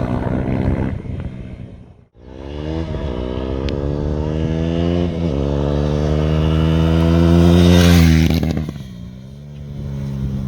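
KTM Duke 390's single-cylinder engine through a Scorpion slip-on exhaust, dB killer removed, accelerating past in a flyby. The note climbs steadily in pitch and grows louder, is loudest about eight seconds in, then drops in pitch and level as the bike passes.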